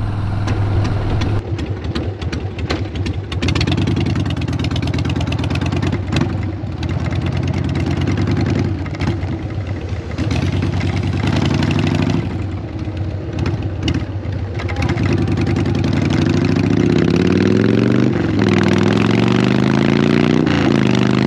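2002 Harley-Davidson Sportster 1200's air-cooled V-twin engine running under way. In the last few seconds it rises in pitch as it accelerates, dropping back twice before climbing again.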